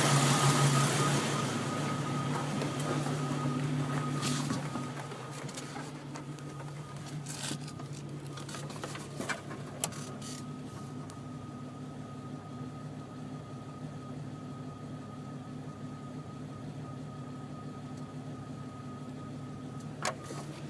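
Engine idling with a steady low hum that drops to a quieter idle about four seconds in, with a few sharp clicks later on.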